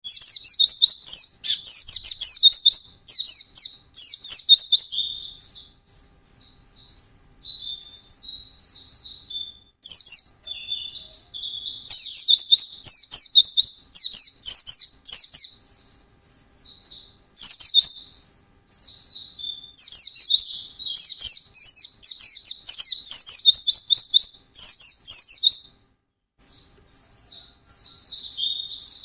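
White-eye (pleci) singing continuously in fast, high twittering phrases of rapid chirps, broken by a few short pauses.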